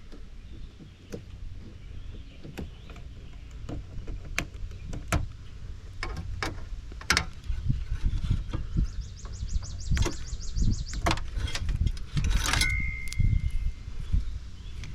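Wire cutters snipping through a scrap dishwasher's electrical cords: a dozen or so sharp clicks and snaps spread irregularly, over a low steady rumble. About two-thirds through there is a quick rapid chatter of high ticks, and near the end a brief high steady tone.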